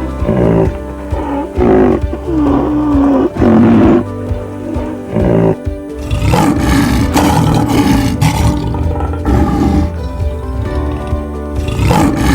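A series of short animal calls, then a longer, rougher call, over background music.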